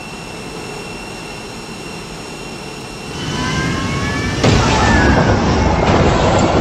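Jet aircraft engine noise: a steady high whine over a rushing noise. About three seconds in, several tones climb in pitch, and about a second later the noise suddenly becomes much louder.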